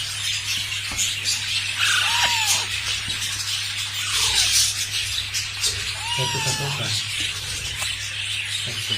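Two meow-like calls, each a short arching glide in pitch, about two seconds in and again about six seconds in, over a steady hiss and low hum.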